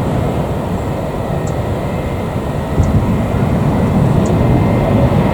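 Jet engines of an Airbus A321 airliner running, a steady low noise with a faint high whine.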